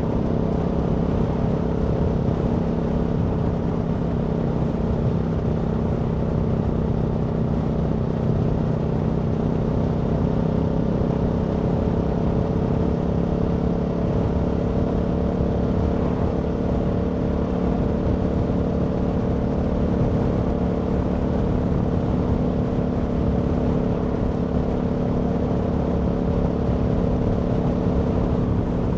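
Aprilia Tuono V4 motorcycle's V4 engine running at a steady, nearly constant speed while cruising, its pitch holding almost level the whole time over a low rumble.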